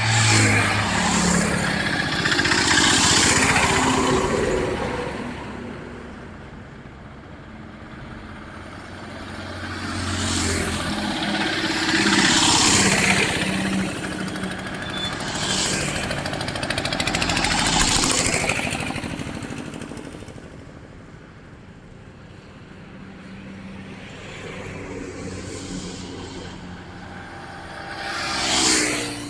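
Trucks and other road vehicles passing one after another on a highway, each swelling and fading with engine and tyre noise; about six pass-bys, the last one close and loud near the end, its engine note dropping in pitch as it goes by.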